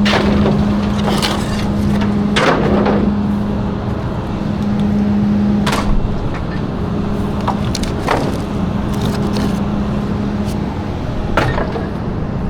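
Garbage truck running with a steady low drone, with about five sharp cracks and crashes of bulky trash and wood breaking as it is loaded.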